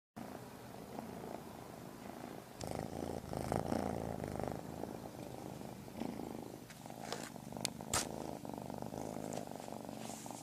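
Cat purring steadily, with a few sharp clicks in the second half.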